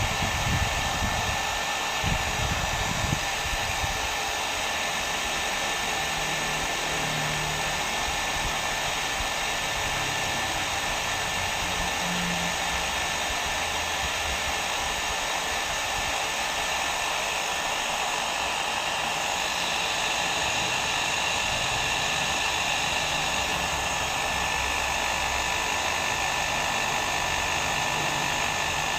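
Hair dryer running steadily: a constant rush of blown air with a thin steady whine from its motor, with a few low bumps in the first seconds.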